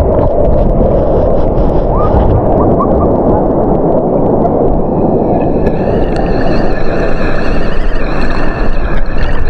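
Loud wind buffeting the microphone over beach surf. From about halfway a steady high-pitched whine of several tones joins in.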